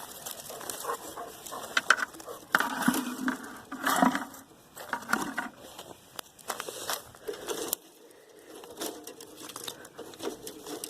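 Dry sticks and leaves crunching and rustling, with scattered sharp snaps and knocks, as small firewood is gathered and handled; busiest in the first half, quieter for a moment past the middle.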